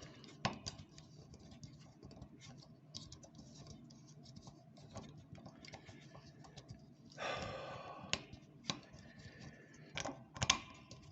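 Small clicks, knocks and scraping of a microphone adapter being worked against the mount's screw thread, with a longer grating scrape about seven seconds in. The adapter will not screw on because the thread is damaged.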